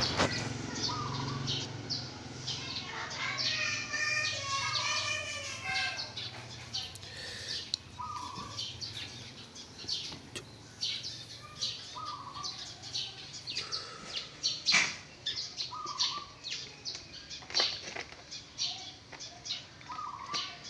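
Birds chirping: many short, sharp chirps throughout, with a lower short call repeating every few seconds.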